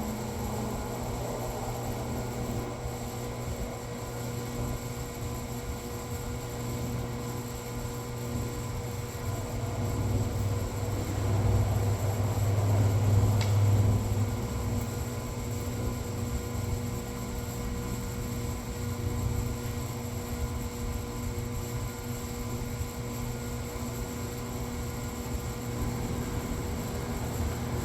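Steady machine hum with a few steady tones, growing louder for a few seconds around the middle.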